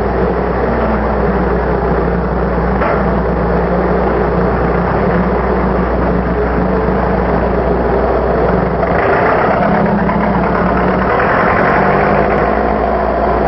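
An engine running steadily under a constant low hum, heard on an old soundtrack that is cut off in the treble. It grows louder and brighter about nine seconds in and again about eleven seconds in.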